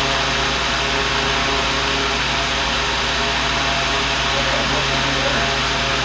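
Steady whooshing fan noise at an even level, with a low electrical hum underneath.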